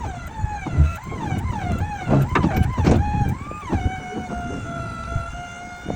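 Low-loader trailer's hydraulics whining as the legs and ramps are raised, the pitch wavering up and down under changing load, then settling to a steady whine, with a few clanks around the middle.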